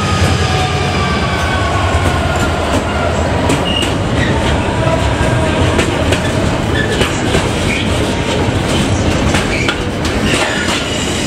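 Train running through the station, its wheels clattering over rail joints with brief high squeals. A whine falls in pitch near the start.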